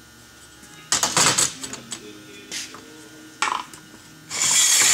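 Metal clanks and knocks, then a loud scraping near the end, as a long chainsaw bar and chain are handled and fitted onto a chainsaw.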